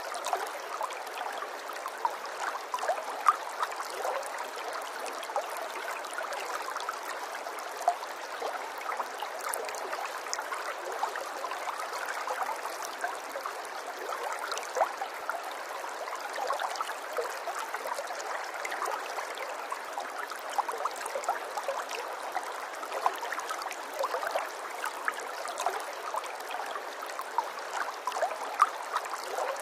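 Water trickling and burbling steadily, like a small stream, with many small splashes and drips scattered throughout.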